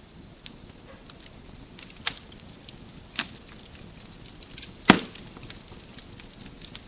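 Wood fire crackling in a fireplace: a low steady hiss under scattered small crackles, with sharper pops about two and three seconds in and one loud snap near five seconds.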